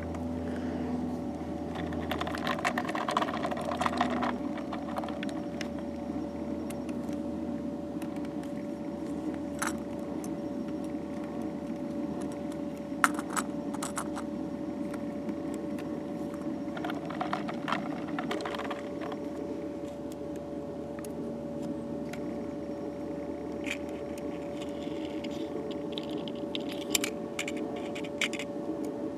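Light clicks and short metallic rattles, in scattered clusters, over a steady hum; small hard parts such as those of die-cast model trucks being handled.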